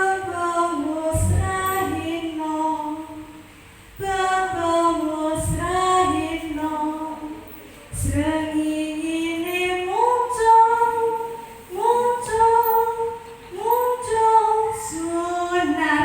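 A woman's voice singing unaccompanied in four sung phrases, each note held and sliding into the next, with short breaks between the phrases.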